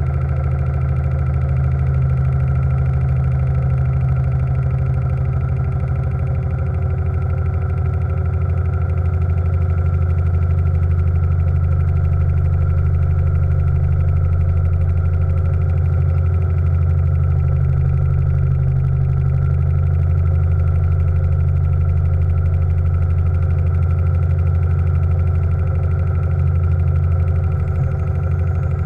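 Steam launch's steam engine running at a steady speed: a continuous low drone with fast, even beats, its pitch shifting only slightly about halfway through.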